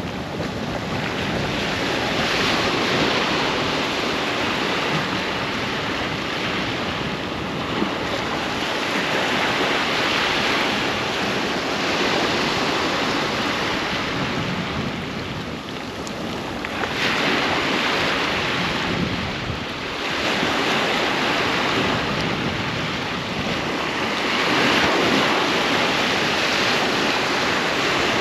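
Ocean waves breaking and washing up a sandy beach, swelling and easing every few seconds, with some wind buffeting the microphone.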